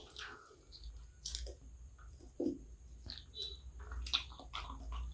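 Close-miked chewing and biting of a piece of chicken from kottu, with wet mouth smacks and sharp clicks scattered throughout, over a low steady hum.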